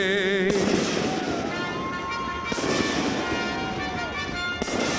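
A man's held sung note with vibrato ends about half a second in. Then aerial fireworks launch and burst, with sharp bangs about two and a half and four and a half seconds in.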